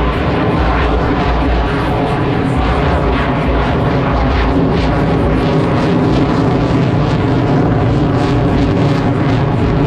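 Loud, steady jet engine noise from an F-22 Raptor's twin turbofans, holding level with a faint layered whine over the rush of the exhaust.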